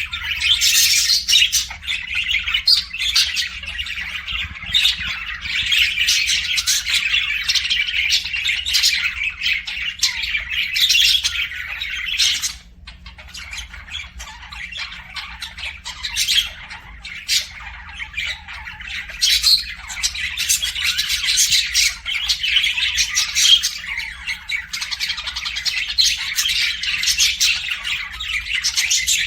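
Many small pet birds in an aviary chirping and squawking at once in a dense, continuous chatter that thins briefly about twelve seconds in and then picks up again.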